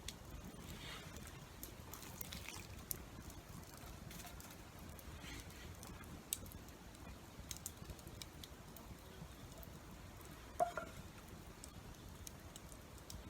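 Faint rain patter with scattered sharp crackling ticks from a small campfire, and one brief louder knock with a short pitched ring about ten and a half seconds in.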